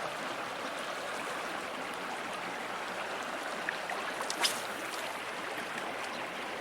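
Small river flowing, a steady rush of running water, with a few faint clicks about four seconds in.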